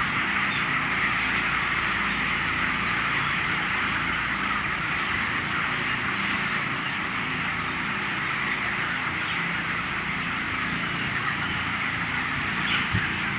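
A large flock of 24-day-old broiler chickens giving a dense, steady chatter of calls inside a tunnel-ventilated house, over a constant low hum of the ventilation fans. There is a brief knock near the end.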